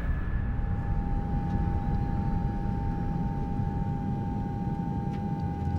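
Airplane engine drone: a steady low rumble with a steady whine over it.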